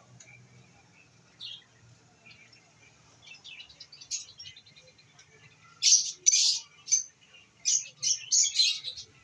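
Lovebirds chirping: a few scattered shrill calls at first, then from about six seconds in a run of loud, harsh chirps in quick succession.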